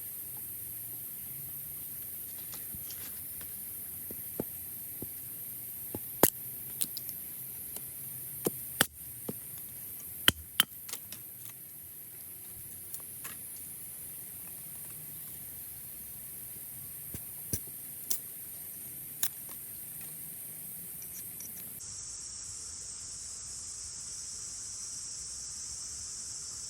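Steady high-pitched drone of crickets or similar insects, dropping to a lower pitch about 22 seconds in. Scattered sharp clicks and snaps stand out over it, about a dozen in all, bunched in the first two-thirds.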